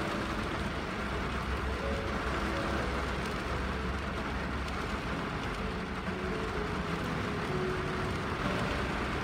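Steady rain on a car windshield, a constant hiss with a low rumble beneath it. A few faint, soft melody notes sound here and there.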